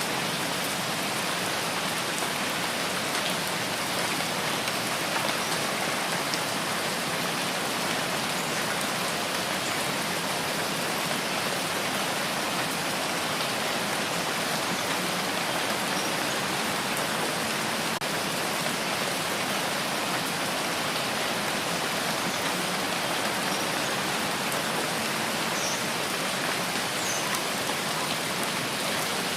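Steady rain falling, an even hiss of many drops with a few small patters standing out.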